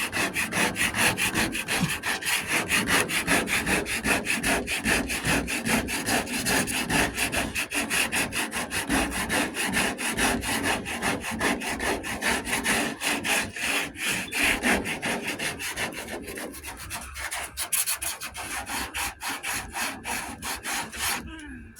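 Sandpaper rubbed back and forth by hand over dried body filler on a truck door, in quick, even strokes of about four or five a second that thin out near the end.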